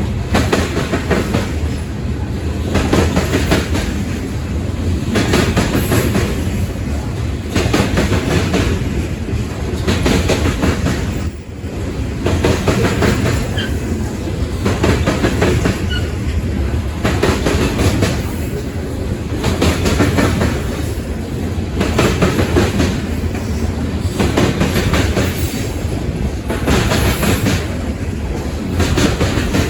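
Freight cars of a long mixed freight train rolling past, their wheels clacking over the rail joints in a steady repeating rhythm about every one to two seconds, with a brief lull about eleven seconds in.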